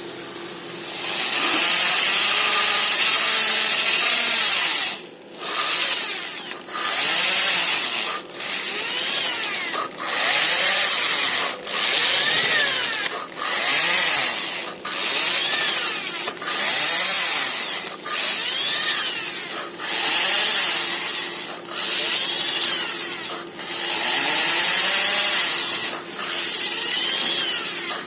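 A power tool lapping valves into their seats on a cylinder head, with a rubbing, grinding sound. It runs once for about four seconds, then goes in about a dozen shorter bursts with brief stops between them, and its pitch rises and falls within each burst.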